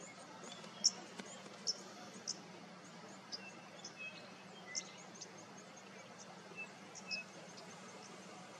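Small birds calling faintly in the bush: short, scattered high chirps and a few brief whistled notes over a steady low hum and background hiss.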